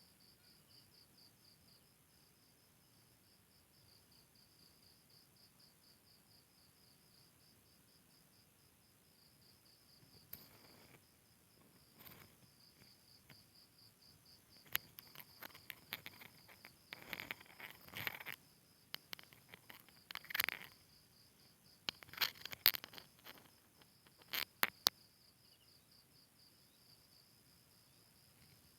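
A cricket chirps steadily in rapid, even pulses. For about ten seconds in the middle, louder scattered clicks and rustles are heard.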